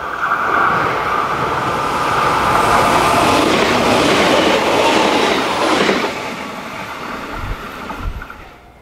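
A 681/683-series limited express electric train passes close by at speed, wheels clattering over the rail joints. The running noise builds quickly, stays loud for a few seconds and then fades as the train goes by, with two low thumps near the end.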